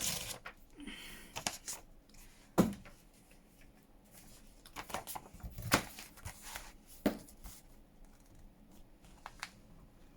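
Small pieces of paper being torn and rustled by hand, with a few sharp clicks, the loudest about two and a half seconds in.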